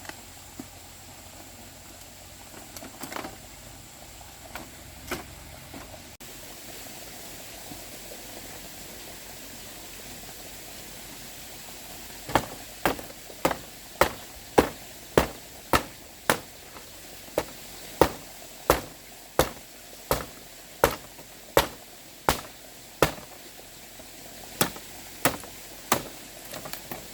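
Faint steady background with a few light knocks, then about halfway through a long run of sharp, evenly spaced blows from a hand tool, about one and a half a second, pausing briefly and resuming for three more strikes near the end.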